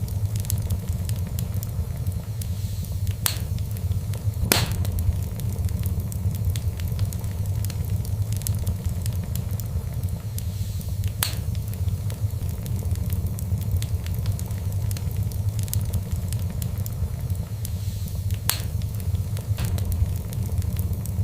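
Fireplace fire crackling over a steady low rumble, with many small ticks and a few loud, sharp pops spread through.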